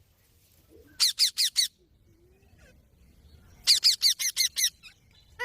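Green parrot calling in two quick runs of short calls, each call falling in pitch: four calls about a second in, then a faster run of about eight a little before four seconds in.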